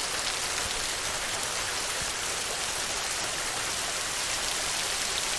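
Steady heavy rain: a dense, even hiss of falling drops with no letup.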